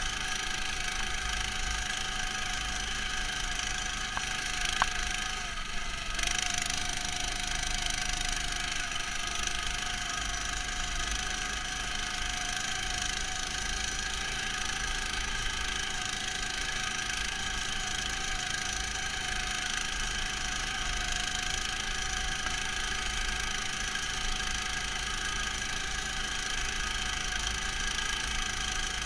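Neva MS-1's small engine running steadily, heard muffled through the camera's protective housing, with a short knock about five seconds in.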